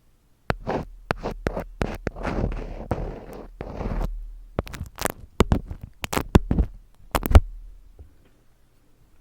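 Close-miked ASMR trigger sounds: a quick string of sharp clicks and crackling scratches, starting about half a second in and stopping after about seven seconds.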